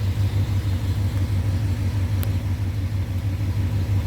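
1990 Chevrolet pickup's engine idling with a steady, evenly pulsing low rumble. A single sharp click about two seconds in.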